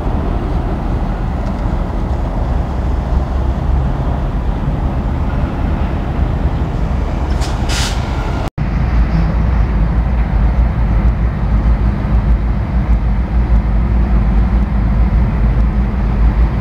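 Freight train of covered grain hopper cars rolling past: a steady low rumble of wheels on rail, with a brief high-pitched squeal about eight seconds in.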